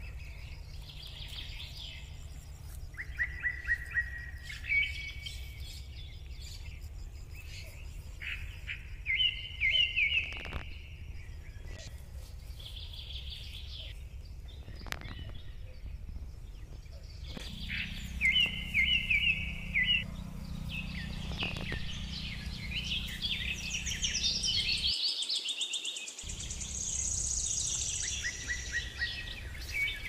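Birds chirping and singing in short series of quick repeated notes, several calls overlapping and growing busier and higher-pitched near the end, over a steady low rumble.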